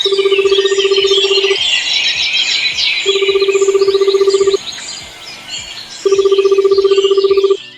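Birds chirping and twittering throughout, with a rapidly pulsing, buzzer-like electronic tone that sounds three times, about a second and a half each, with gaps of similar length.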